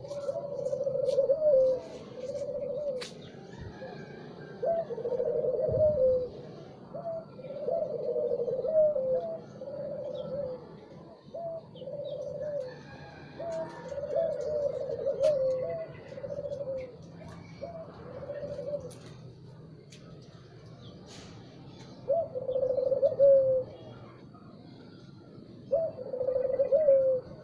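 Spotted dove cooing over and over in short phrases of a second or so each. It stops for a few seconds about two-thirds of the way through, then gives two more phrases. Faint chirps of other small birds sound behind it.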